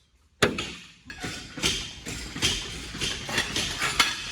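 A sudden thud, then a run of irregular knocks and scuffs, two or three a second.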